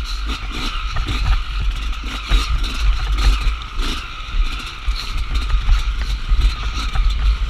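Off-road dirt bike engine running at a fairly steady pitch while riding a trail, with wind buffeting the microphone and frequent short clatters from the bike over rough ground.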